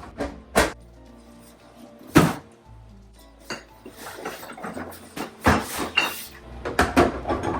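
Background music with a steady low bed, over sharp knocks and clinks of kitchen containers and items being handled and set down in a fridge. The loudest knock comes about two seconds in, and a busy run of clatter fills the last two seconds.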